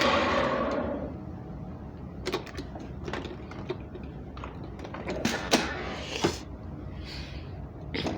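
Hoover SteamVac carpet cleaner's motor winding down after being switched off, fading out over about the first second. After it come scattered light clicks and knocks from handling the machine.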